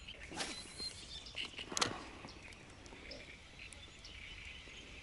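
Faint outdoor ambience with scattered bird chirps. Two brief sharp noises come about half a second and two seconds in.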